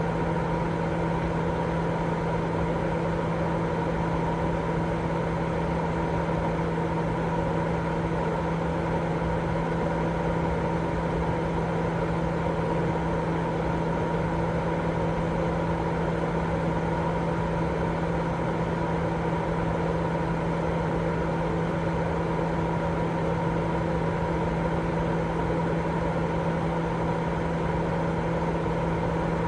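Continuous white noise for baby sleep: a steady, unchanging rushing hiss, weighted toward the low and middle range, with a steady low hum running through it.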